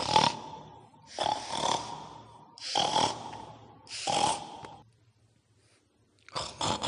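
A run of pig-like grunts: four rough, breathy blasts about a second and a half apart.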